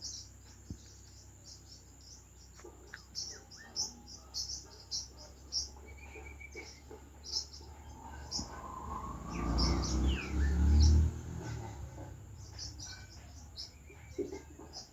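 Outdoor chorus of short, high chirps repeating throughout, from birds and insects. A louder low rumble swells in the middle for about two seconds, with a brief falling whistle over it.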